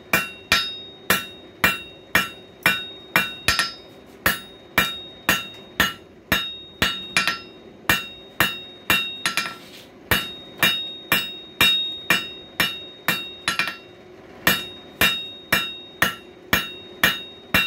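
Blacksmith's hammer striking hot coil spring steel on an anvil to straighten it, a steady run of blows about two a second, each ringing with a clear metallic tone. The hammering pauses briefly twice, about halfway through and again a little later.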